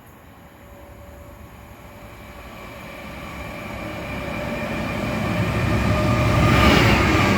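A train approaching along the line and passing close by, growing steadily louder to a peak near the end: a rumble with a steady whine of several tones riding above it.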